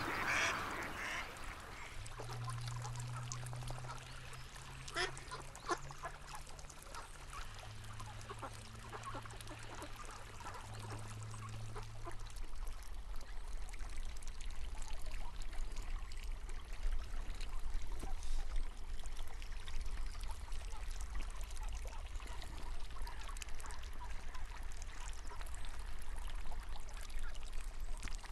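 Flowing river water with a few ducks quacking, mostly in the first half. A low steady hum runs from about two seconds in until about twelve seconds in.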